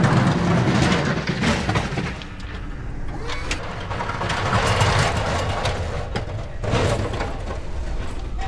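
Snowplow truck running, a loud, uneven engine-and-noise sound that swells and eases.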